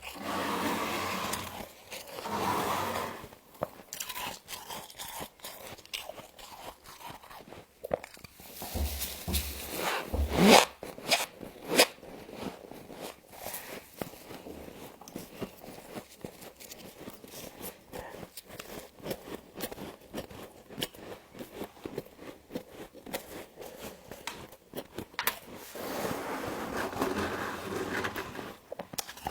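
Humidifier frost being bitten and chewed close to the microphone: many small crisp crunches, with longer rasping, scraping stretches near the start and near the end. A short rising squeak about ten seconds in is the loudest sound.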